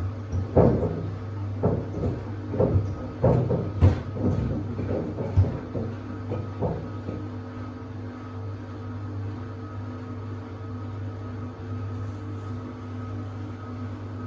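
Samsung WD70T4047CE washer-dryer's drum motor humming steadily in the final spin, with about eight dull thumps in the first seven seconds as the sneakers inside knock against the drum; then only the hum. These knocks are the unusual noises that were not there during the wash.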